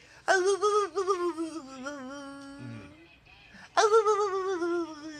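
A puppy howling ('singing') in two long, wavering howls: the first slowly drops in pitch and fades, and the second starts sharply about three and a half seconds in.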